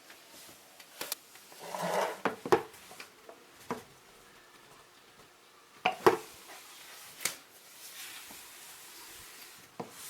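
Scattered clicks and knocks of hard objects being handled, with a short rustle about two seconds in.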